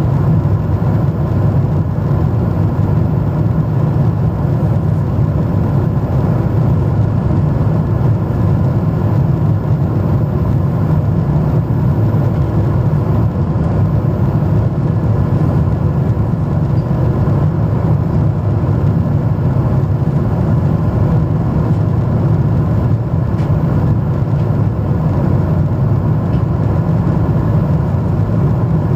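Jet engine and airflow noise heard inside an airliner's cabin in flight: a steady, loud, low drone that does not change.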